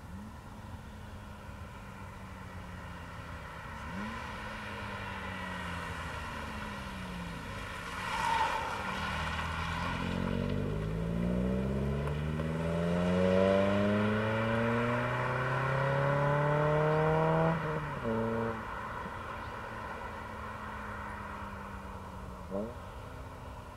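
Toyota Echo's 1NZ-FE four-cylinder running through a Scion xA TRD axle-back muffler: idling with a few short throttle blips, then revved steadily upward for about seven seconds before the throttle is released sharply and it falls back to idle.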